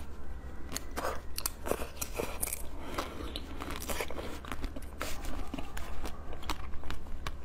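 Chewing and crunching a crisp chocolate-shelled, cream-filled dessert close to a collar microphone: a run of sharp, irregular crunches, over a steady low hum.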